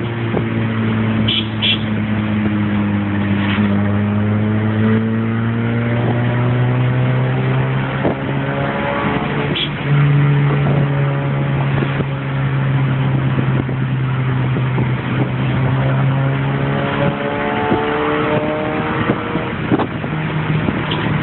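Car engine with a newly installed aftermarket exhaust, driving under way with a steady drone. The engine note climbs and sags slowly, steps up sharply about halfway through, drops back a few seconds later and rises again near the end as the revs change.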